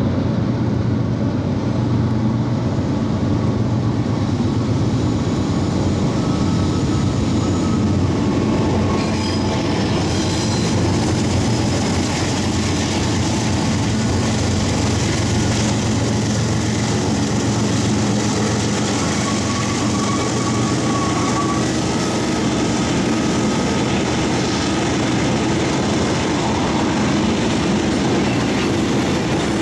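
Freight train rolling past, a steady rumble and clatter of wheels on the rails, with brief high wheel squeals about ten seconds in and again around twenty seconds in.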